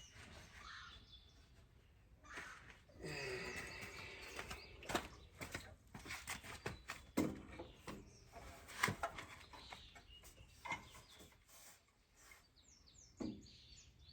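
Scattered knocks and clunks of a small engine and metal parts being handled as the engine is set onto a garden tiller, with shuffling in between. Birds chirp faintly, most clearly near the end.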